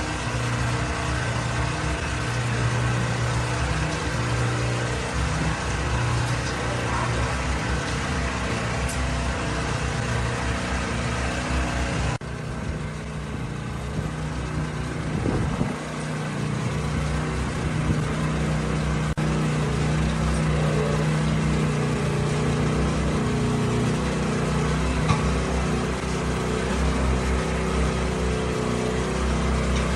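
A motor running with a steady hum, its pitch and character shifting suddenly about twelve seconds in.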